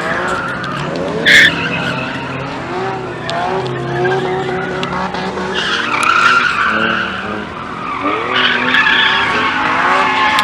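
Car engines revving up and down hard, with tyres skidding and squealing as cars spin on the pavement. A brief loud high-pitched tone cuts in about a second and a half in.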